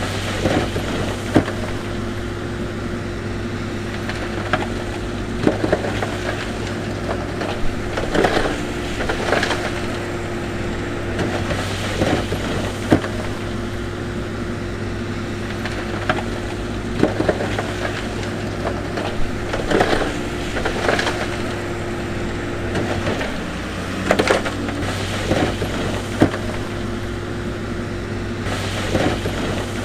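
Heavy diesel construction machinery running steadily, with irregular knocks and clatters of stone being pushed and dumped.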